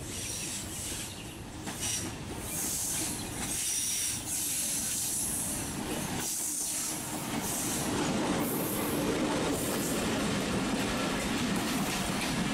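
Diesel-hauled passenger train approaching and passing close by: locomotive rumble and steel wheels on the rails with a high hiss and squeal, growing louder as the coaches roll past.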